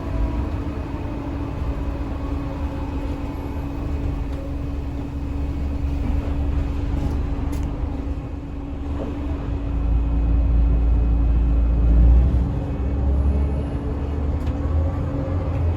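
Scania L94UA bus running: a steady engine drone with a constant hum, and a low rumble that swells about ten seconds in. A fainter whine falls in pitch at the start and rises again near the end.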